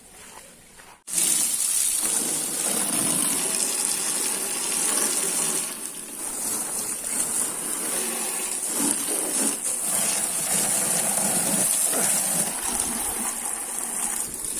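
Steady jet of water spraying onto a scooter as it is washed, starting abruptly about a second in, with a brief dip near the middle.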